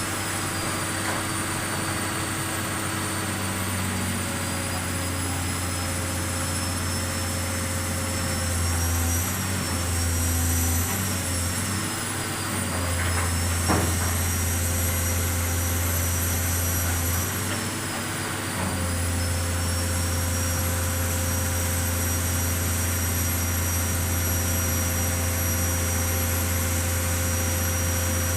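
Pile-driving machine running steadily with an engine drone and a high whine that drifts in pitch. The low hum eases off and comes back a few times, and there is one sharp click about two-thirds of the way through. There are no regular hammer blows.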